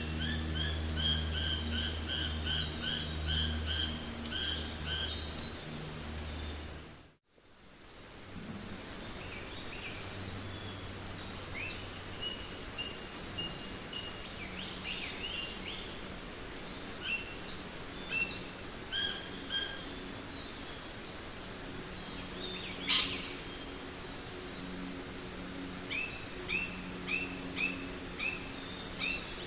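Jungle ambience: many birds chirping and calling in quick runs of short notes over a steady background hiss, with a low steady hum under the first part. About seven seconds in, the sound dips briefly to near silence and a new stretch of bird calls begins, with one sharp loud call later on.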